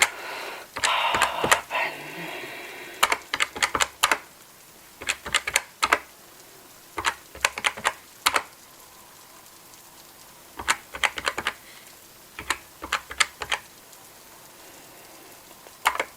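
Cash register keys being pressed in short runs of sharp clicks, about six runs with pauses between them. A short stretch of noise comes about a second in.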